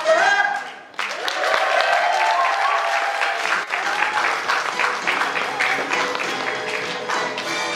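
A sung note ends in the first second. An audience then applauds, with music still playing underneath.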